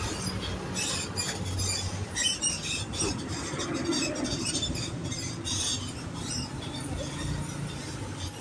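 Bus engine running at a low, steady rumble, with many short high-pitched squeaks throughout.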